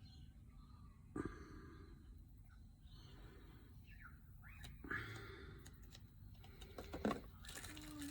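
Faint handling sounds over low room rumble: a few sharp knocks and taps about a second in, near the middle and near the end, and a brief hissy scrape just before the end.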